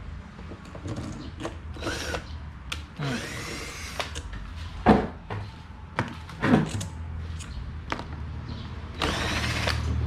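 Power drill run in short bursts, its pitch rising and falling with each pull of the trigger, between sharp clicks and knocks of parts being handled.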